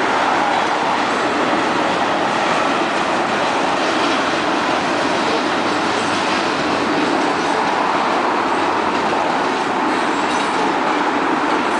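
Freight train of covered grain hopper cars rolling past, a steady noise of steel wheels running on the rails.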